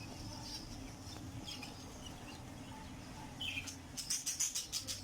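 Lovebird chicks chirping: a few scattered high chirps, then a quick run of short chirps near the end.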